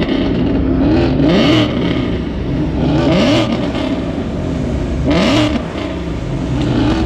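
Car engines revving over a steady engine rumble, the pitch rising in short sweeps again and again, every second or two.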